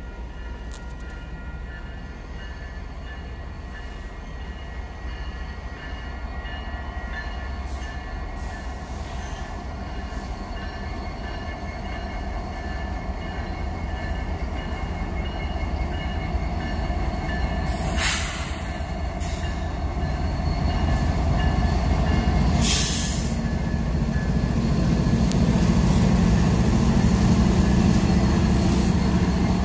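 Union Pacific freight train's diesel locomotives approaching slowly and drawing alongside. The low engine rumble grows steadily louder, with a deeper engine drone coming up strongly over the last third, and two brief hisses partway through.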